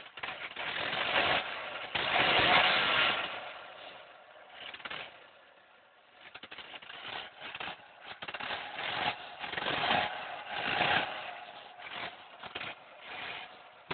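Volvo 240 engine running rough just after a cold start, surging and stumbling unevenly; it swells loudest a couple of seconds in and sags low about six seconds in. The shaking, uneven running is a misfire that the owner puts down to a possibly damaged spark plug.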